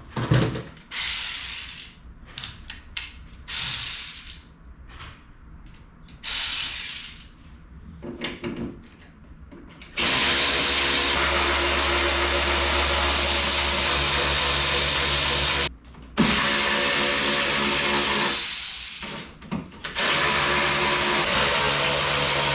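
Short scattered clicks and tool handling, then a cordless power tool spins fasteners out in long steady runs, stopping briefly twice.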